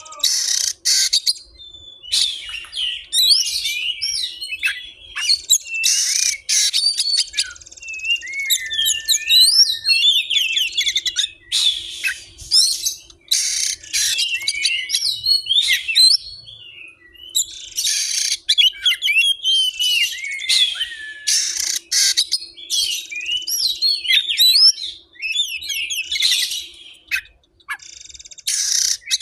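Murai air (forktail) birdsong: a rapid, varied run of sharp chirps, whistled glides and warbles, broken by several harsh rasping bursts. It is recorded song played as filler training material for a magpie robin.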